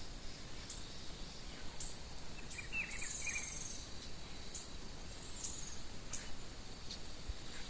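Wild birds calling: short high chips about once a second, with a brief warbling song phrase about three seconds in and another just after five seconds. A steady high insect drone runs beneath them.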